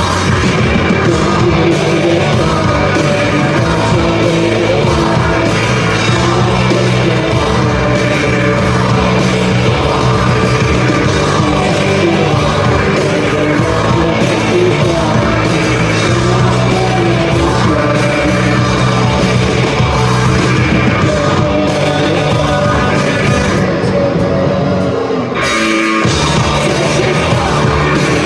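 Live rock band playing a song with a singer, loud and dense. Near the end the sound briefly thins out, then the full band comes back in.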